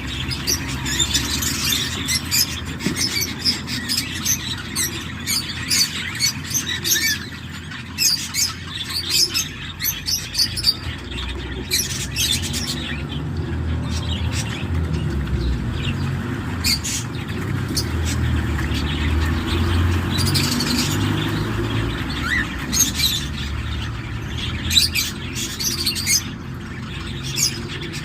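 Cockatiel chicks in the nest giving many short, raspy, high-pitched chirps and squeaks in quick irregular runs, over a steady low rumble.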